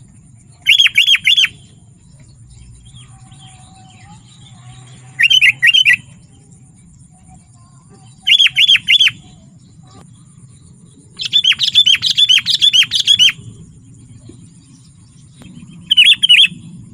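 Sooty-headed bulbul (kutilang) calling in loud bursts of quick chattering notes: five phrases a few seconds apart, the fourth lasting about two seconds.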